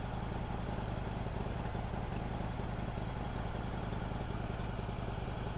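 Honda CB500X's parallel-twin engine running steadily, an even low engine note with no revving.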